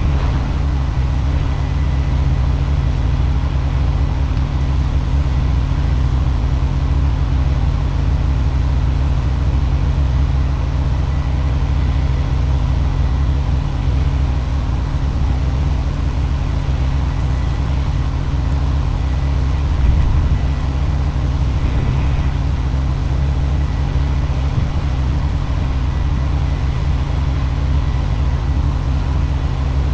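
Gas-engine pressure washer running at a steady, constant speed, a continuous low drone.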